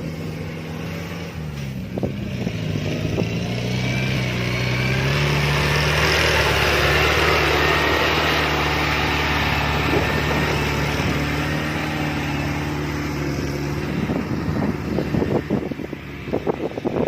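Kubota DC-70 Plus combine harvester running, its engine a steady drone that swells louder through the middle with a rushing hiss over it. Irregular crackles and knocks come in over the last few seconds.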